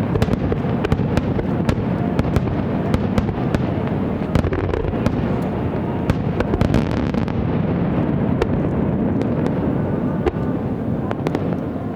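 Aerial fireworks going off in a dense, continuous barrage. The bursts run together into a steady rumble, with many sharp cracks and pops over it.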